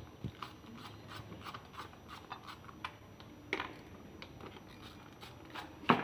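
Scattered clicks and light knocks of hands and tools handling engine parts during disassembly, with a sharper knock about three and a half seconds in and a louder one near the end.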